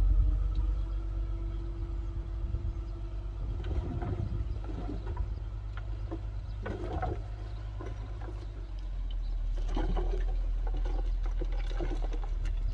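Heavy diesel earthmoving machinery running with a deep, constant rumble. A steady engine tone sits on top for the first few seconds, then fades out among irregular mechanical sounds.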